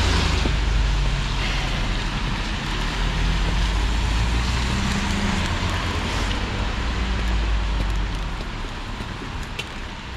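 Motor vehicle engine running close by, a low rumble over road hiss, easing away about eight seconds in. A few light ticks near the end.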